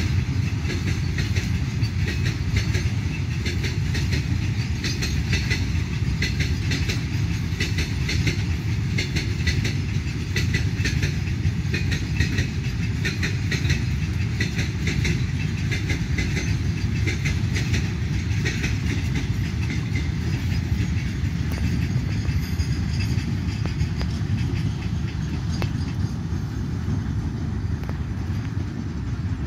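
Long freight train of covered goods wagons rolling past: a steady rumble from the wagon wheels with rapid clickety-clack over the rail joints, easing a little near the end as the last wagons and the brake van go by.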